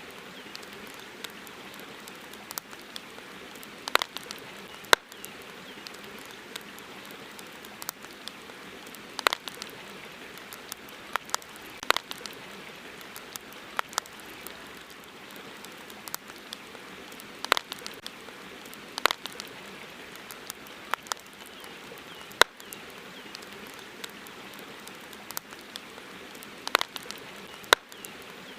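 Campfire crackling: sharp, irregular pops and snaps, some much louder than others, roughly one every second or two over a steady soft hiss.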